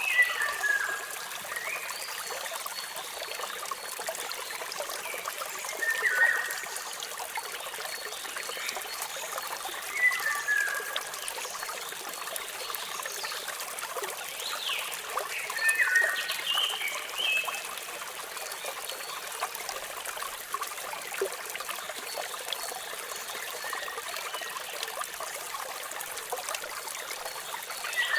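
Steady trickling, splashing water of a small waterfall, with a bird's short calls that drop in pitch breaking in every few seconds.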